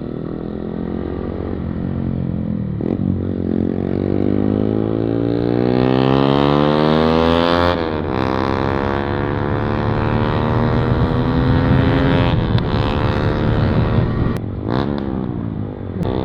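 Yamaha MT-15's single-cylinder engine accelerating through a modified, loud exhaust with the dB killer removed. The pitch climbs, drops sharply at a gear change about eight seconds in, climbs again, and drops at further shifts around twelve seconds and near the end.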